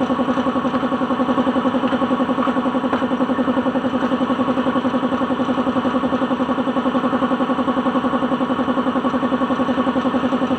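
Suzuki DA16's engine idling steadily with a fast, even pulse.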